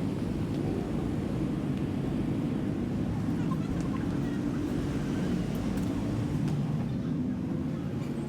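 Steady low rumble of a running vehicle engine, starting abruptly and holding even, easing slightly near the end.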